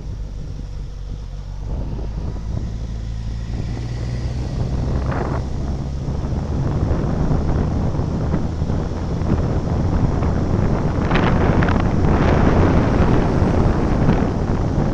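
A vehicle driving on the road: a steady low engine hum under wind rushing over the microphone, growing louder in the second half.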